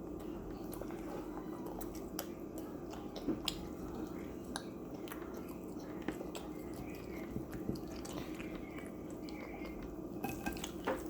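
People chewing food, with scattered small clicks and mouth smacks, over a steady low hum.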